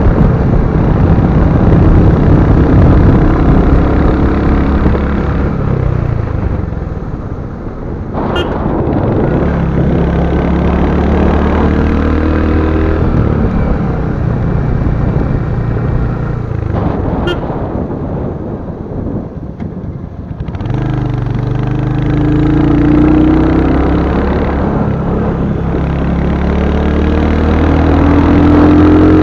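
Royal Enfield Hunter 350's single-cylinder engine running on the move, its revs climbing and falling several times. The engine eases off twice, about eight and twenty seconds in, then pulls up again.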